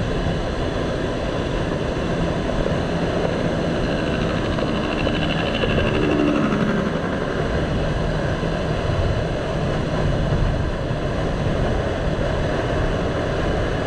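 Motorcycle riding along: steady rushing wind and road noise with the engine running underneath. About six seconds in, a pitched tone falls briefly.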